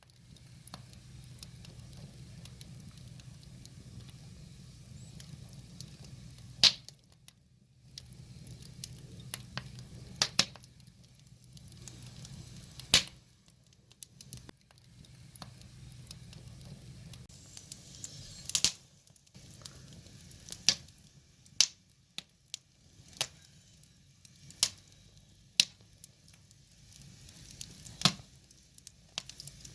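Firewood fire burning and crackling, with sharp wood pops every second or few seconds. A low steady hum sits under it through the first half and then fades.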